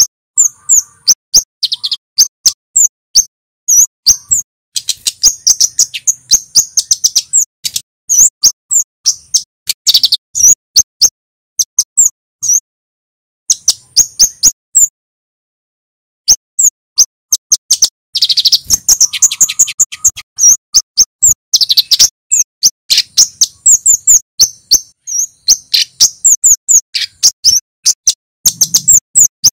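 Male kemade flowerpecker singing a rapid string of sharp, high 'cit' chirps, with two short breaks partway through and quicker rattling trills later on.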